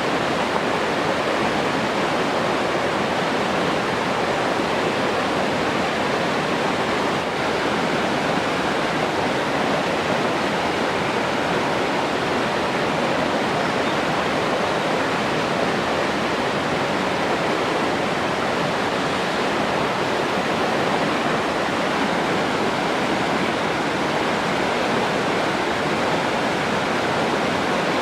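Running water rushing steadily, an even wash of sound with no breaks or changes.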